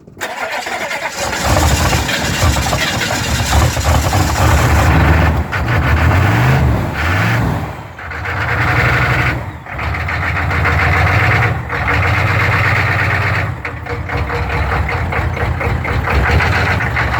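GM 6.2 L V8 diesel engine firing on a cold start and running loudly, with its speed rising and falling in a couple of quick revs and the sound dipping briefly several times.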